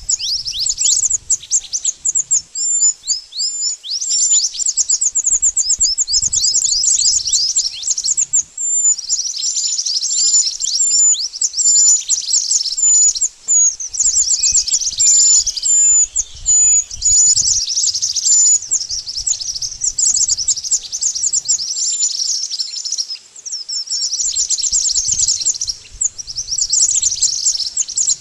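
Song of the mantenan bird: dense, fast series of high, downward-sweeping chirps delivered in bursts with brief pauses, a recording used as a lure call for bird trapping.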